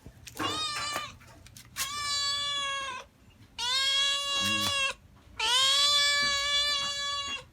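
Cat meowing: four long, drawn-out meows at a steady pitch, the first short and the last the longest at about two seconds.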